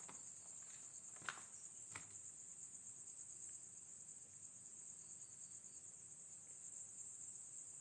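Steady high-pitched chorus of insects, with two short clicks or taps about a second and two seconds in.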